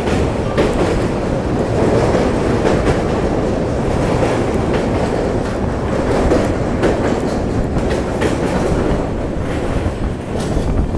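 Passenger train of LHB coaches running at speed, heard from beside a moving coach: a loud, steady rumble of wheels on rail broken by irregular clacks.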